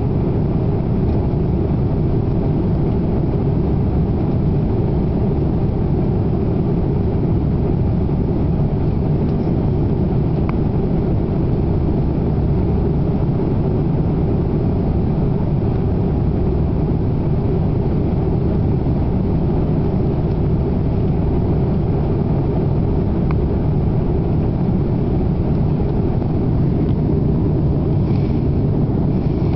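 Steady low rumble of an Airbus A340-300 in cruise, heard from inside the cabin: airflow over the fuselage and the drone of its four CFM56-5C engines.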